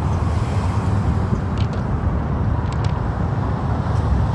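Steady low outdoor rumble, with two brief faint high chirps about one and a half and two and a half seconds in.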